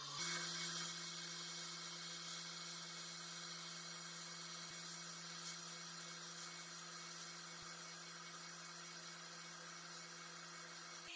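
A small electric motor humming steadily, with a hiss above it, as from a small power tool running.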